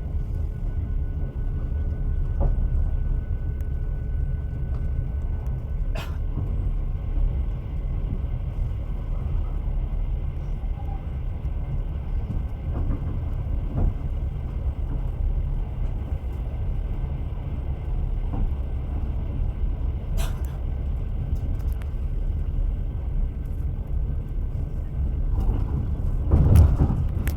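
Train running on the rails: a steady low rumble of the wheels on the track, with a few sharp clicks and a louder knock near the end.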